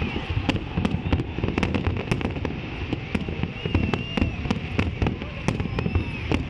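Fireworks display: a continuous low rumble of bursts with sharp bangs and crackles about three times a second.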